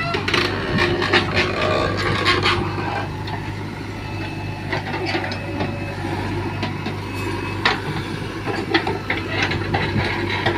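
JCB 3DX backhoe loader's diesel engine running steadily under a scatter of irregular knocks and rattles as it works loading mud.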